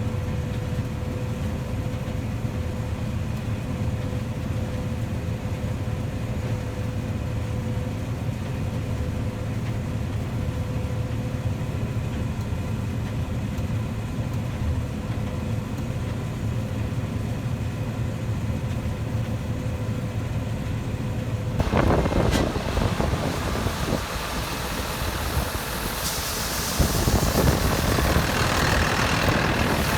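Heavy farm machinery engine running steadily, with a steady whine above the hum. About three quarters of the way through, the sound changes suddenly to a louder rushing noise, which grows louder again near the end.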